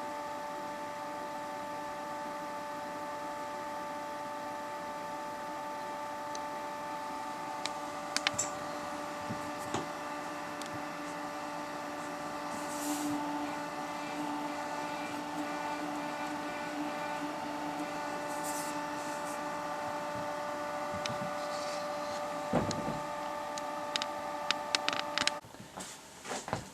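Diamond GZV4000 power supply giving a steady electrical hum and whine of several fixed tones, which cuts off suddenly near the end, followed by a few clicks and knocks.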